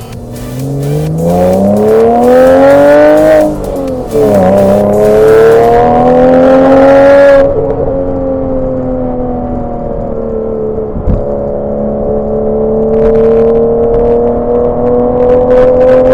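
Porsche 987 Boxster's flat-six engine with VarioCam accelerating hard: the revs climb, dip at an upshift about three and a half seconds in, and climb again. About seven seconds in it eases off to a steadier run, with the revs slowly rising. One short thump about eleven seconds in.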